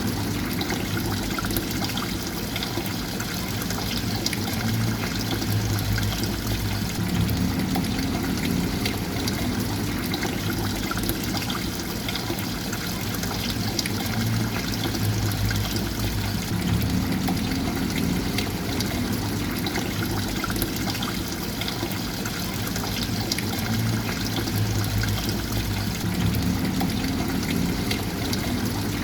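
Water steadily trickling and pouring, a continuous splashing flow with a low rumble that swells and eases about every ten seconds.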